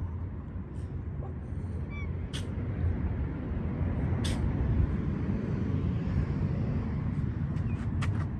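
Low, steady rumble that grows slightly louder, with a few short sharp clicks and taps over it.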